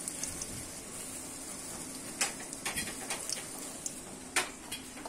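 Wontons frying in shallow oil in a wok: a steady sizzle, with a few sharp clicks a couple of seconds in and again near the end.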